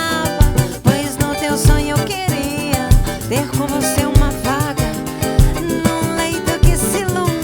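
Samba band playing: cavaquinho and guitar over percussion and a drum kit, with a steady, regular beat.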